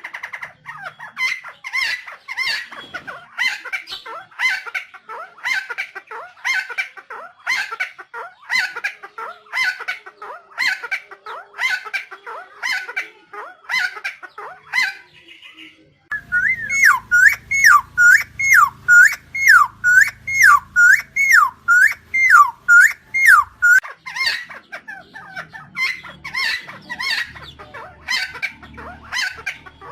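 Helmeted friarbird (Philemon buceroides) calling over and over in a rapid run of sharp notes. About halfway through, the recording cuts to a clearer series of swooping down-and-up notes, about two a second, over a low hum.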